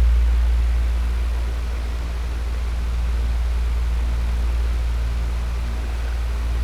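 Electric fan running steadily: a deep low hum under an even rush of air, its loudness easing a little and swelling again.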